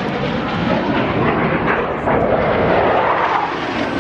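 Jet aircraft engines running in a flypast, a steady loud rush that swells a little about halfway through.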